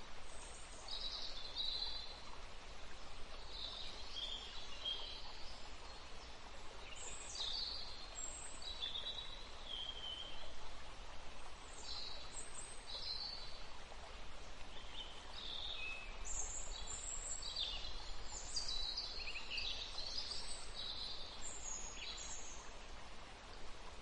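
Songbirds singing and calling: many short, mostly falling chirps and whistles, busiest toward the end, over a steady background hiss.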